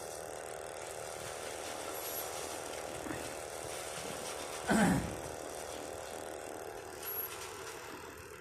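Steady road and engine noise heard from inside a moving vehicle, with one short loud knock or bump about halfway through.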